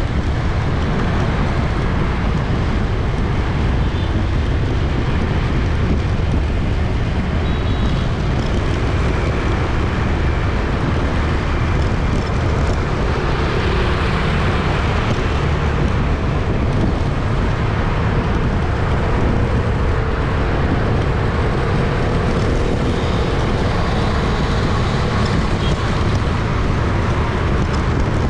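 Busy city street traffic: a steady, dense din of vehicle engines and tyres, swelling briefly about halfway through as something passes closer.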